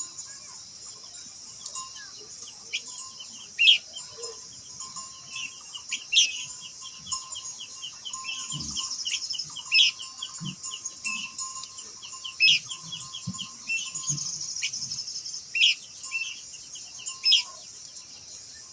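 Khướu lùn, a small babbler, singing: loud sharp whistled notes every two or three seconds with quick chattering trills between them. A steady high-pitched buzz sits under the song.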